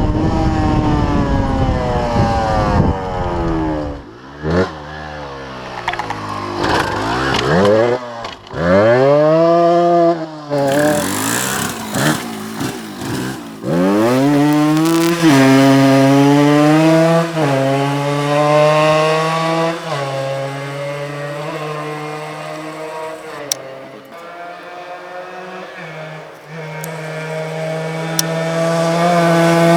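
Yamaha DT125's two-stroke single-cylinder engine running with a buzzy note, its revs rising and falling repeatedly: a few sharp blips about ten seconds in, a steadier stretch in the middle, then revs dropping away and climbing again near the end.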